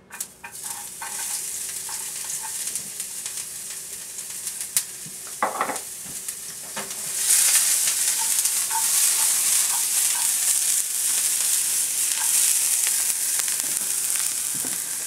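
Finely diced carrot, onion and celery sizzling in oil in a frying pan, the sizzle growing louder about seven seconds in. A few knocks of cookware come in the first half.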